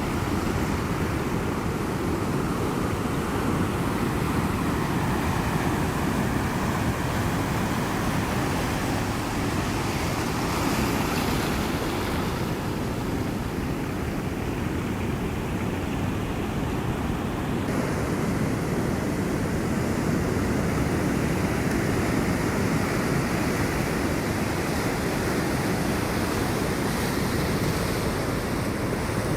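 Ocean surf: a steady, continuous wash of breaking waves, swelling and easing slowly in loudness.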